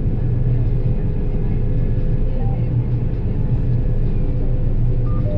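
John Deere 9770 combine harvester running at a steady speed: a loud, even drone with a strong low hum.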